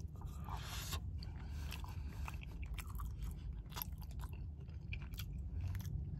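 A man chewing a mouthful of chicken shawarma close to the microphone: irregular wet smacks and mouth clicks throughout.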